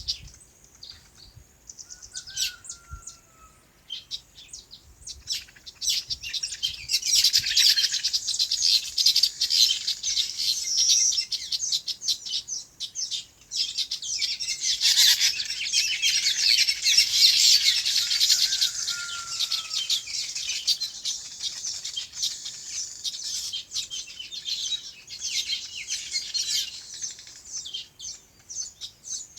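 Many small birds chirping rapidly together, a dense high twittering chorus. It starts sparse, swells to a busy peak after about seven seconds, and thins out toward the end, with one or two short falling whistles among it.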